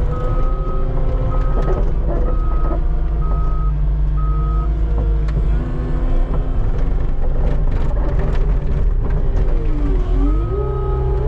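Skid steer's diesel engine running under load, with a reversing alarm beeping about once a second for the first few seconds and once more near the end. The engine pitch dips and climbs back near the end, with a few knocks and scrapes in between.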